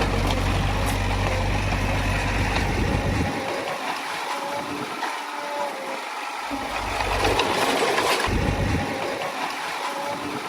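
A Komatsu D20A bulldozer's diesel engine runs steadily under load while it works. The deep low hum comes and goes twice.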